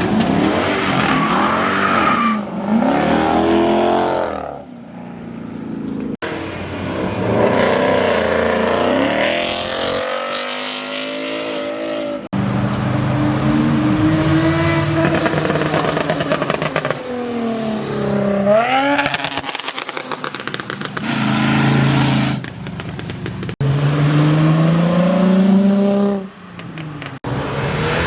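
Performance car engines revving and accelerating hard in a run of short clips, the exhaust note climbing and falling with the revs, with sudden changes from one car to the next.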